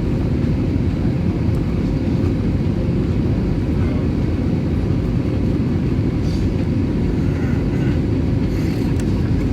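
Steady low rumble of cabin noise inside an Airbus A320neo airliner, from its engines and the air rushing past.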